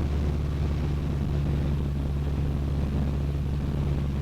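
Cessna 152's four-cylinder Lycoming engine and propeller droning steadily in flight, heard inside the cabin.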